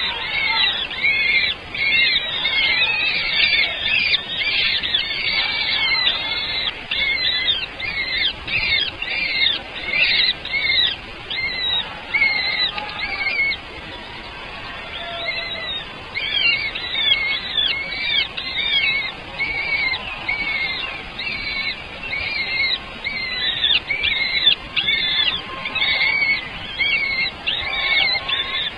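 Baby birds chirping: many short, high chirps repeated rapidly and overlapping, easing off briefly about halfway through.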